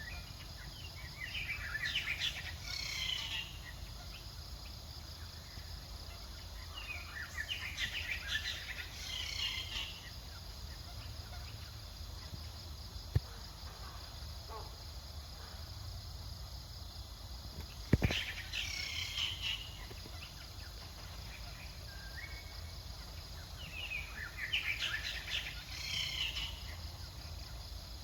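Birds chirping in four short bursts of rapid high calls, over a steady low outdoor rumble; a sharp knock sounds once, in the middle.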